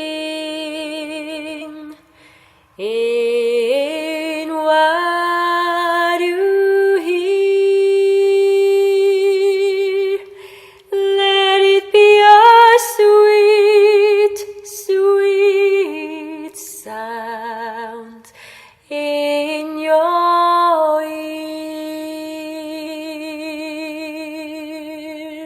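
A woman singing a slow worship melody unaccompanied, with vibrato on long held notes and short breath pauses between phrases.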